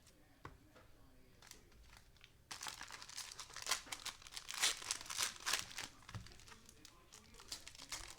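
Plastic wrapper of a trading card cello pack crinkling as it is torn open and pulled apart. This starts about two and a half seconds in after a few faint clicks, runs as a rapid crackle for a few seconds, and comes back briefly at the end.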